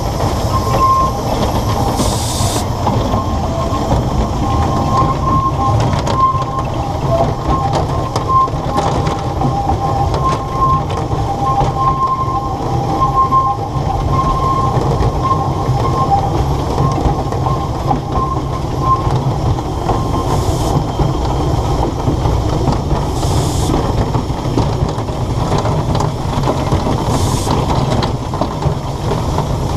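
A 2 ft gauge narrow-gauge train running, heard from aboard: a steady rumble of wheels on the rails, with a thin, broken squeal from the wheels that comes and goes and dies away about two-thirds of the way through.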